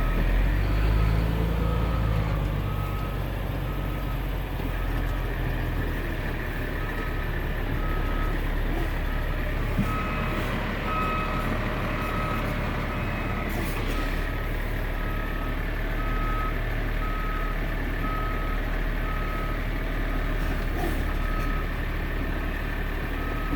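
Garbage truck's backup alarm beeping steadily, a bit more than once a second, while the truck reverses, over the steady running of its Caterpillar C7 diesel engine.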